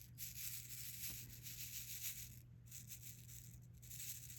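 Small resin diamond-painting drills rattling and clicking faintly in a plastic tray as they are shaken and picked up with the drill pen, over a steady low hum.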